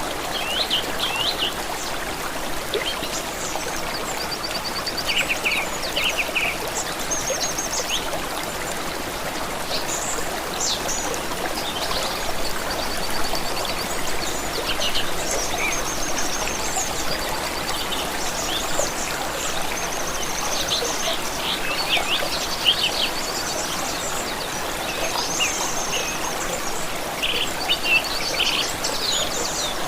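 Running water of a small stream or trickle, steady throughout, with several songbirds chirping and trilling over it in short repeated phrases.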